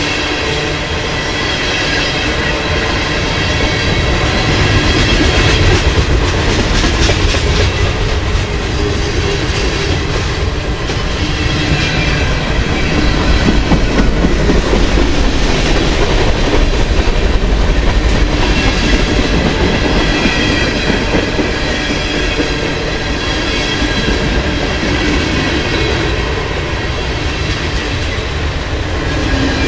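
Loaded freight cars of a long manifest train (tank cars, a boxcar and a lumber flatcar) rolling past close by, steel wheels rumbling and clacking over the rail, loudest around the middle. High squealing tones from the wheels come and go over the rumble.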